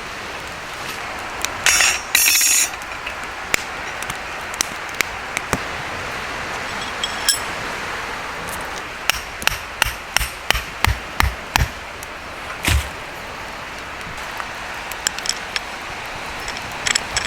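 A series of sharp knocks and metallic clinks from camp gear being handled, irregular and bunched near the middle, over a steady wash of sea surf and wind.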